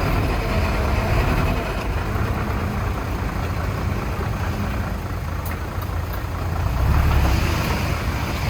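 Heavy diesel engine of earthmoving equipment running steadily, growing louder for a moment about seven seconds in.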